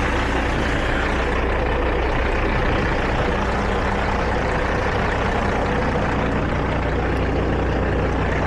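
Heavy diesel truck engine idling steadily, with a constant low hum and a slight change in its tone about six seconds in.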